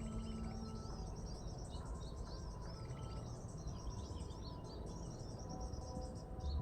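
Small birds chirping: a dense run of short, high chirps and arching notes repeated over and over, over a low rumble.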